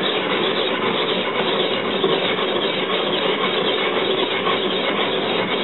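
Spring-steel sword blade being rubbed on an India oil stone, a steady continuous scraping of steel on abrasive stone.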